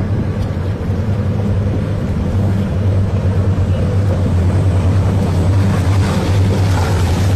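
Twin V12 engines of the Lamborghini yacht running steadily at speed: a loud, even low drone under a broad rushing noise.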